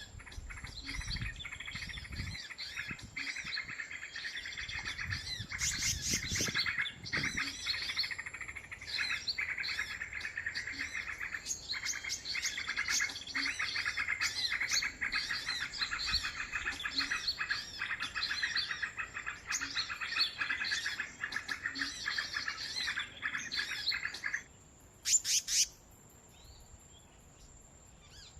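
Small songbirds chirping in a dense, rapid, unbroken stream of high calls that cuts off abruptly near the end, followed by two sharp, loud chirps. A few low thuds of handling noise come in the first seconds.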